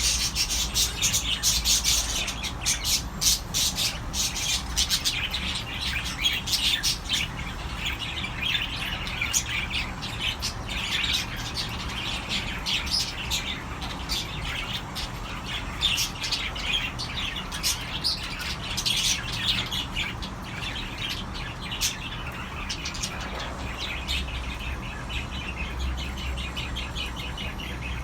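Cockatiels chirping: a dense stream of quick, high chirps, busiest and loudest in the first few seconds, thinning out toward the end.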